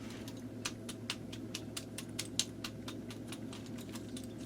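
Light, irregular clicky taps, roughly four a second, as hands pat over a GE Super Sphere's plastic shell and miniature bulbs, checking for a loose bulb on a half-lit string. A steady low hum lies underneath.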